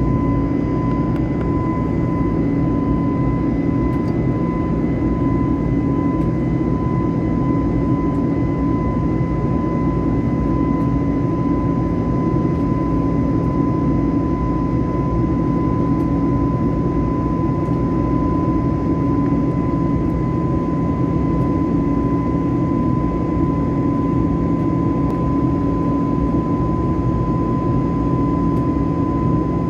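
Steady cabin noise of an Airbus airliner in flight: a low rush of jet engine and airflow with a constant high whine running through it.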